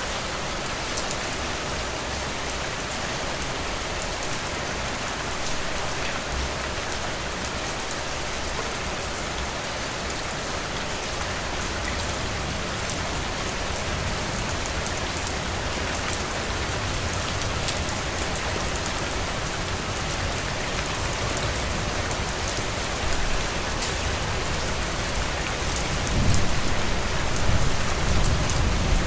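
Heavy rain falling steadily on a roof, a dense even hiss with fine drop ticks. A low rumble swells and the sound grows louder near the end.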